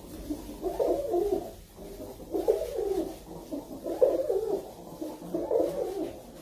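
A pigeon cooing repeatedly, low soft coos following one another about once a second.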